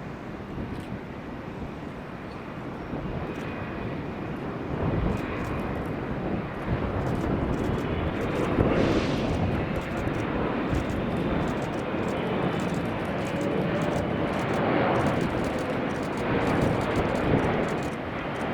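Jet airliner's engines running close by as the aircraft passes, a broad rumble that grows louder through the first half and stays loud.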